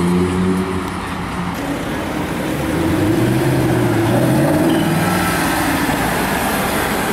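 A car engine running, its pitch shifting up and down, over road noise.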